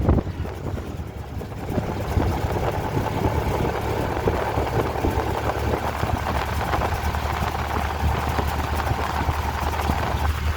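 A vehicle engine running steadily, with a low hum under a broad rushing noise. A higher hum stops shortly before the end.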